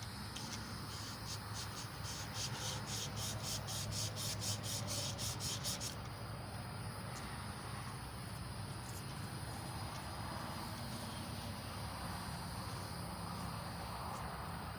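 Emery cloth being worked back and forth over a small-block Chevy 350 crankshaft journal to polish it. The strokes come quickly and evenly, about four rasps a second, stop about six seconds in, and then give way to a softer, steadier rubbing.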